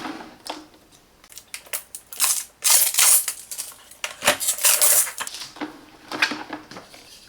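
Hard plastic parts of a bagless vacuum cleaner being handled: a series of knocks, rattles and scrapes, loudest about two to three seconds in and again around four to five seconds in.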